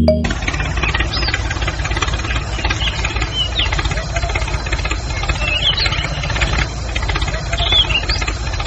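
An engine running steadily at idle with a fast, even knocking beat, cutting off suddenly at the end. Short high chirps, like small birds, sound now and then over it.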